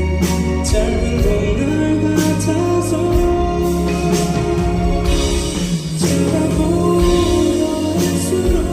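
Live band music played loudly through a PA: sustained bass notes, steady cymbal and drum hits, and a singing voice in the mix.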